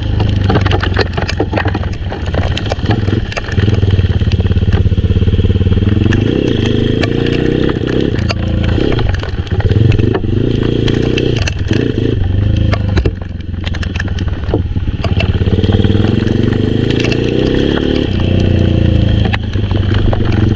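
Honda XRM125 underbone motorcycle's single-cylinder four-stroke engine being ridden hard, its pitch rising and falling over and over as the throttle opens and closes, with scattered clicks and clatter.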